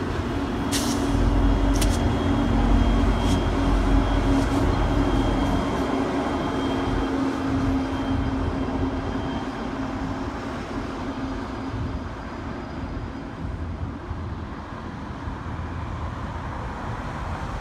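Union Pacific double-stack container train passing: the rumble of the well cars, with two sharp wheel clicks about a second and two seconds in, then the steady drone of the rear diesel locomotives going by. The sound fades as the train pulls away, leaving road traffic noise.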